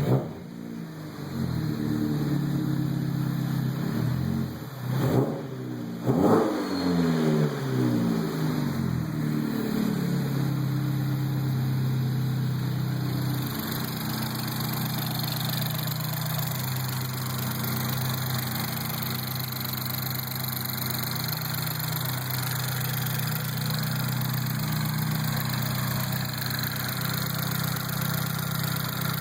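Buick Regal GS engine and exhaust being revved in the first ten seconds, with two quick throttle blips about five and six seconds in, the revs falling back after each. It then settles to a steady idle.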